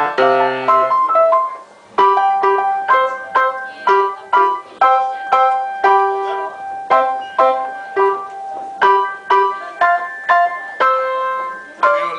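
Keyboard played by hand in a piano sound: a simple melody of single notes, about two or three a second, with a short break about one and a half seconds in.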